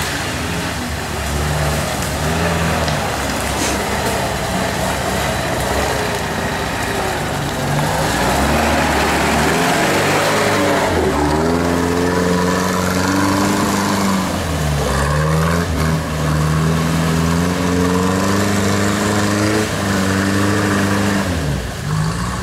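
UAZ-469 off-road vehicle's engine revving up and down again and again as it works through a muddy forest rut, over a steady rushing noise.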